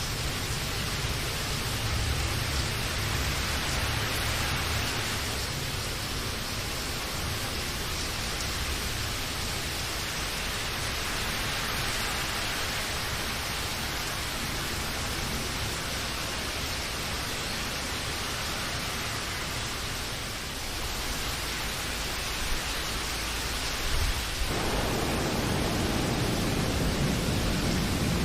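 Steady rainfall, an even hiss of rain with a low rumble beneath it. Near the end a deeper, fuller rush comes in abruptly and stays.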